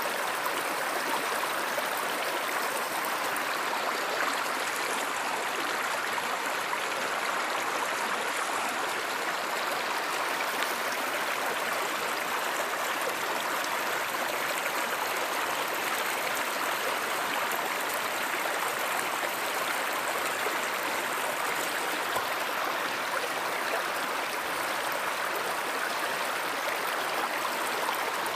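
A river or stream flowing steadily, its water running in an even rush.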